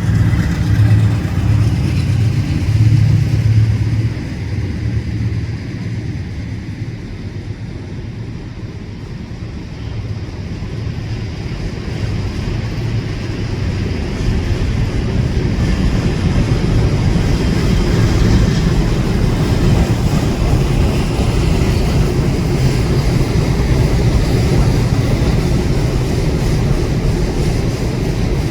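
Freight train passing: a low engine hum in the first few seconds fades, then the steady noise of the cars rolling by builds from about ten seconds in and holds.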